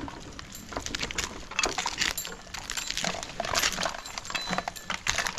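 A tree climber descending on a rope: irregular clinks of climbing hardware mixed with crackling and rustling, without any saw running.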